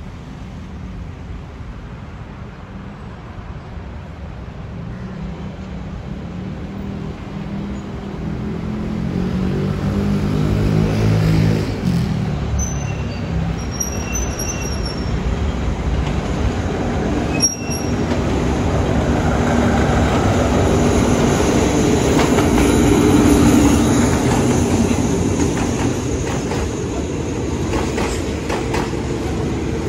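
Alsthom diesel-electric locomotive hauling a passenger train, its engine note growing louder as it approaches, with a few short high wheel squeals about twelve to fifteen seconds in. The locomotive then passes and the passenger coaches roll by close up, wheels clicking over the rail joints.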